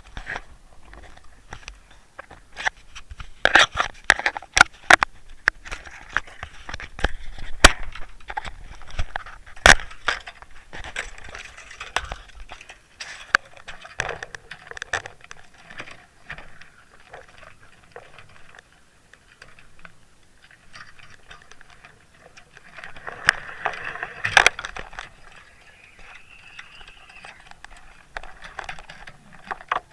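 Irregular clicking and crackling with bursts of rushing water noise, picked up by an in-line underwater camera in its sealed housing as it is towed through the water.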